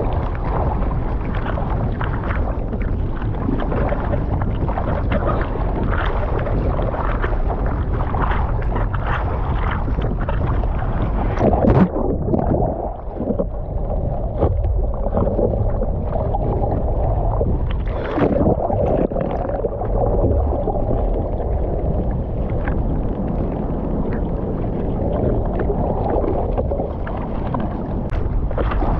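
Ocean water rushing and wind buffeting the microphone while surfing: a steady, heavy low rumble, with a couple of sharper splashes midway.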